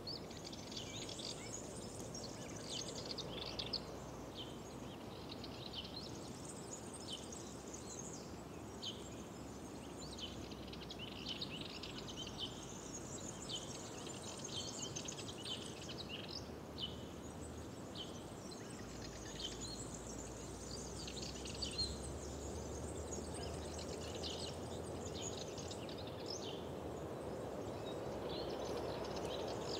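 Songbirds chirping and singing, several birds at once with many short, quick notes, over a steady low background rush that grows a little louder near the end.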